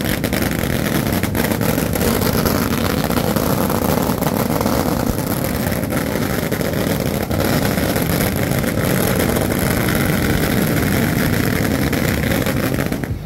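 Fireworks going off in a continuous, dense roar with fine crackling pops through it, from flares burning on long poles amid thick smoke. It stops abruptly at the very end.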